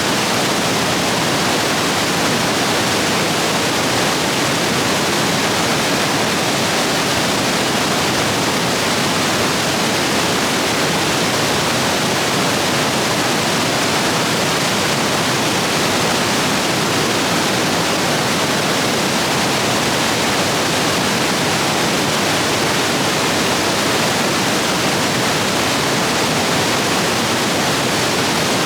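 Rain-swollen rapids rushing over rocks: a loud, steady roar of white water.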